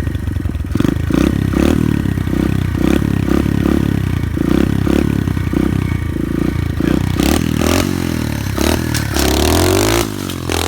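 SSR 125 pit bike's single-cylinder four-stroke engine running hard and revving, its pitch rising near the end before it drops off suddenly.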